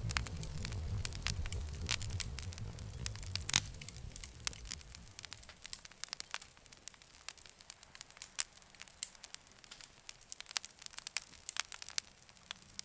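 Campfire crackling, with frequent sharp pops and snaps of burning wood. A low rumble of the flames underneath fades away about five seconds in, leaving the crackles on their own.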